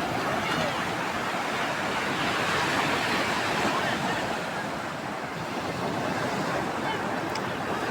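Surf of a rough sea breaking on the beach: a steady rush of waves that swells about two to four seconds in and eases again.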